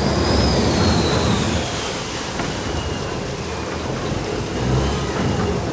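Canal boat's engine running with water churning as the boat slows into the pier. A faint high whine glides slowly down in pitch, and the noise eases after about a second and a half.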